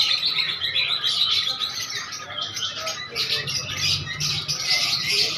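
Many small birds chirping at once in a dense, continuous chatter, with a faint low hum underneath that grows a little past the middle.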